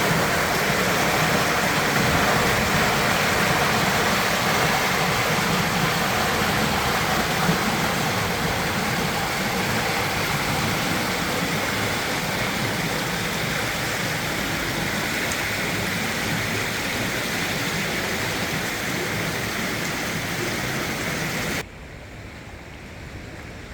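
River Trent in flood rushing steadily, a loud even roar of water. Near the end it drops suddenly to a quieter rush.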